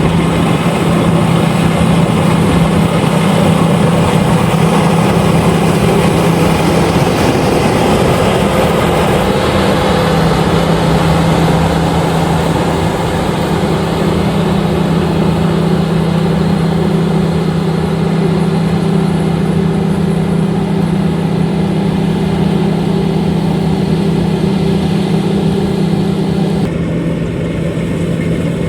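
LOVOL RG130EVO combine harvester running steadily under load, a constant engine drone with the rushing noise of its machinery. Near the end the higher part of the noise drops away suddenly while the engine drone carries on.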